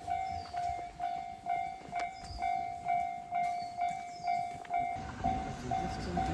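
Railway level-crossing warning bell ringing in a steady ding-ding pattern, about two dings a second, signalling an approaching train. Near the end the train's rumble starts to rise under it.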